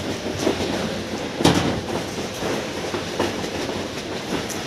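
Strong wind blowing: a steady rushing noise with gusts buffeting the microphone, the strongest about a second and a half in.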